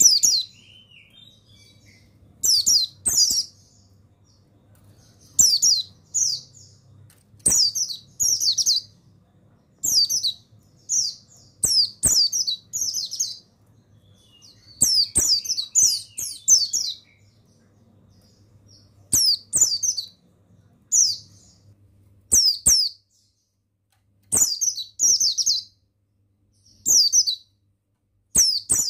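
Buxtoni white-eye (pleci) singing: short phrases of rapid, high-pitched, falling chirps repeated every second or two, each phrase starting with a sharp click. A faint low hum sits between phrases.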